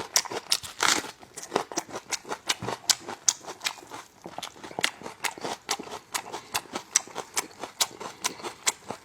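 Close-up eating sounds of a person chewing braised lamb chops: a quick, irregular run of sharp mouth clicks and smacks, several a second.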